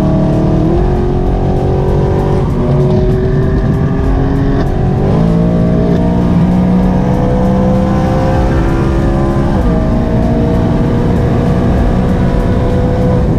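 BMW E92 M3's V8 engine at full throttle, pulling hard through the gears: its pitch climbs steadily, with two brief dips at upshifts, about five seconds in and near ten seconds in.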